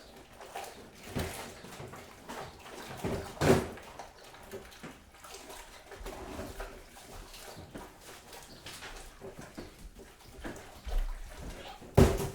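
Kitchen handling sounds: irregular knocks and clinks of things being set down and moved, with a sharp knock about three and a half seconds in and the loudest near the end, over a faint steady hum.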